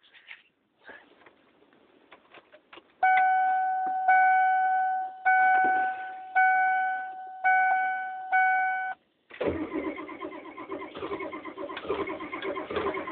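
Clicks, then a dashboard warning chime sounding in about six repeated tones of a second or so each. About nine seconds in, the starter begins cranking a cold Chevy IDI diesel in a steady rhythmic churn without the engine catching; the owner suspects a burned-out glow plug.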